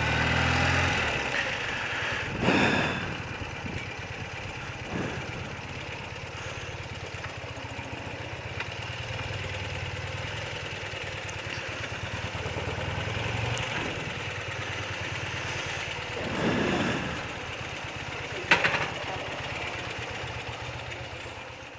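Thirty-year-old BMW motorcycle engine running steadily, heard from the rider's seat. Two brief whooshes come and go, about two and a half seconds and sixteen and a half seconds in, and a sharp click sounds about eighteen and a half seconds in.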